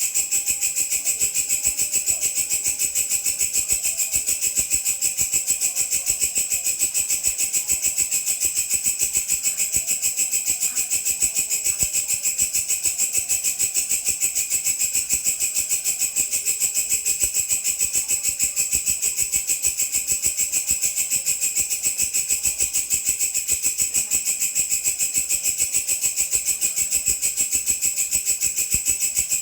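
Singing grasshopper-type insect (belalang) stridulating: a continuous high, rattling buzz made of fast, even pulses.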